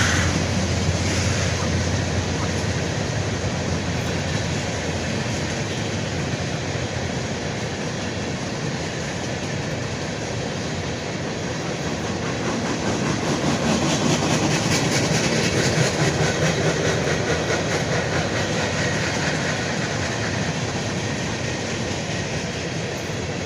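A farm vehicle running steadily with a loose rattle, louder for a few seconds about halfway through.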